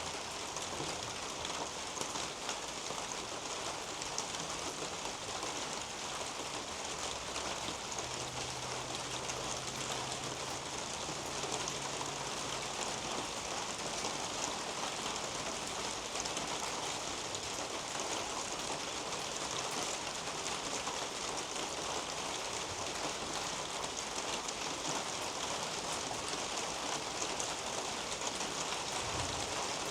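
Steady rain falling on garden foliage, a dense, even patter of individual drops.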